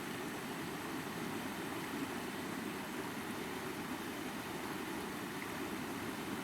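Rushing stream water tumbling over rocks, a steady, even rush that is strongest low down.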